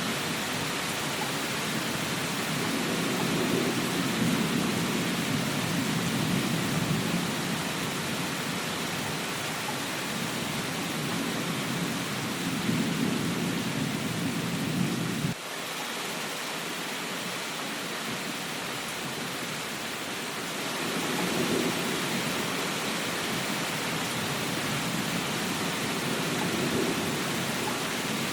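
Steady rain with a low rumbling underneath that swells and fades. The rumble cuts off suddenly about halfway through and comes back a few seconds later.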